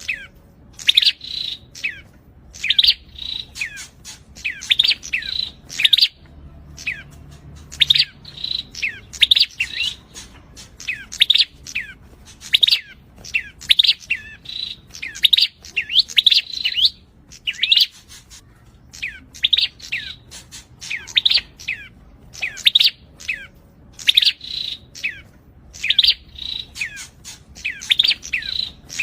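Prinia (prenjak) singing in full voice, 'gacor': fast runs of sharp, high chirps, repeated in quick bursts with short pauses between them.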